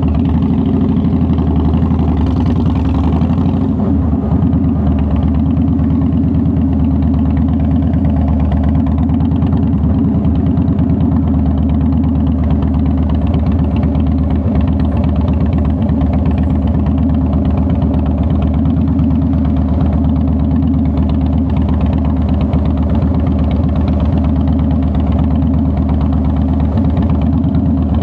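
2009 Harley-Davidson Softail Deluxe's Twin Cam 96B V-twin engine idling steadily with an even, loping beat.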